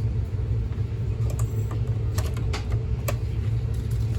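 Steady low hum of a Brightline train standing at the platform before departure, with a few light, sharp clicks scattered over it.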